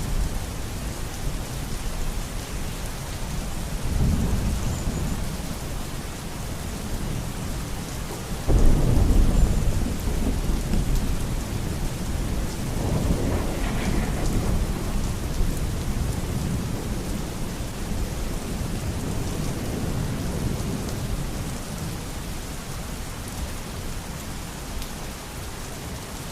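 Steady heavy rain with thunder. A sudden clap of thunder about a third of the way in rumbles on for a couple of seconds, with softer rolls of thunder a few seconds before and after it.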